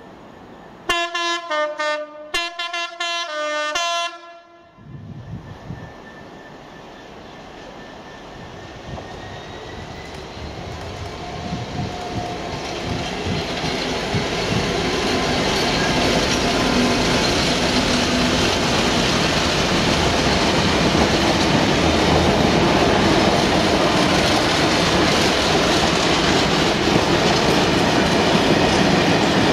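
A two-tone train horn sounds a quick run of short blasts alternating high and low. Then a Class 66 diesel freight locomotive's two-stroke engine approaches, growing steadily louder, and a long rake of aggregate hopper wagons rolls past with a steady rumble and clickety-clack.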